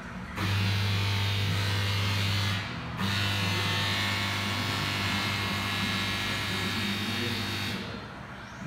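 Lexus IS200's 1JZ-GTE turbocharged straight-six running through a custom 3-inch stainless exhaust with a Magnaflow resonator and muffler. The engine is held at steady raised revs with a constant drone. The revs drop briefly after about two and a half seconds, are held again, then fall back near the end.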